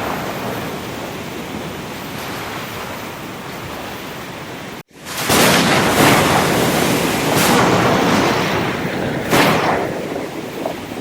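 Ocean surf washing steadily. About five seconds in the sound cuts out for an instant and comes back louder, with waves breaking about every two seconds.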